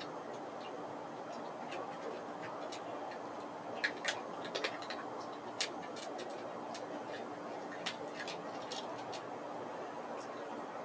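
Irregular short, sharp clicks and ticks, a cluster of them about four seconds in, over a steady low background hum.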